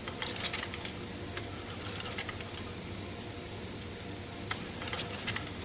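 Scattered light mechanical clicks and rattles from a small Mercury 4/5 hp outboard being turned over by hand with its spark plug out, during a thumb-over-the-plug-hole compression check. The cylinder only sucks and never blows back, a sign of lost compression.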